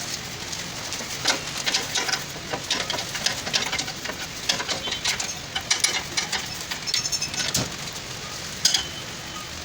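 Irregular light clicks and taps, a few a second, with a couple of louder ones near the end.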